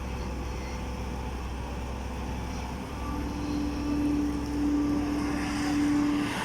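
Heavy diesel machinery running steadily. About three seconds in a steady whine comes in and the engine grows louder.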